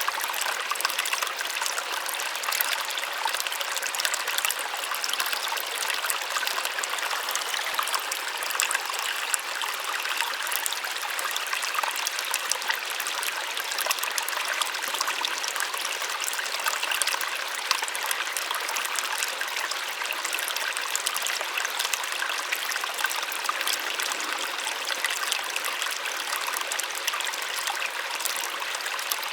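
Small waterfall splashing steadily, a constant soft rush of falling water with fine splashes and no low rumble.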